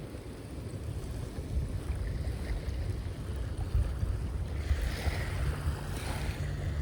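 Sea waves washing in, with a wash of surf swelling about five seconds in, under wind buffeting the microphone with a low rumble.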